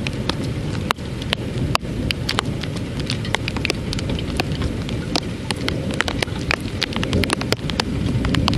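Thunderstorm rain: many sharp, irregular drop hits close by over a steady low rumble.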